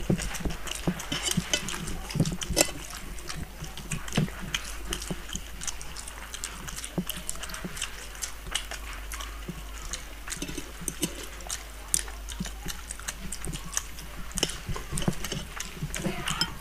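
Several people eating with their hands, chewing open-mouthed with wet smacking and slurping. Fingers squish rice and curry against steel plates, giving many small irregular clicks.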